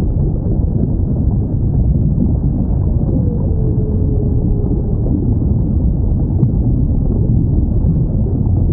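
Whale call: one drawn-out tone that slides down in pitch about three seconds in, over a steady low rumble.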